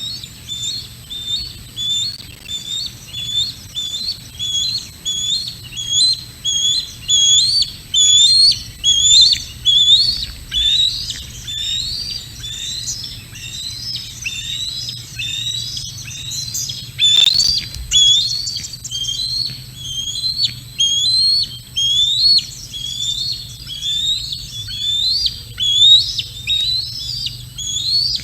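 Birds calling in a steady run of short, rising chirps, one or two a second with several overlapping, and a single sharp click about two-thirds of the way through.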